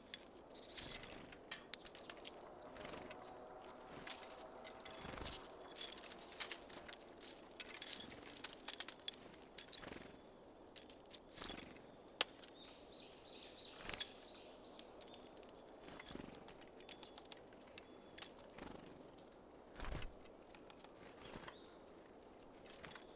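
Small birds at a seed feeder: frequent short, sharp taps and clicks of pecking and landing, with a few brief high chirps.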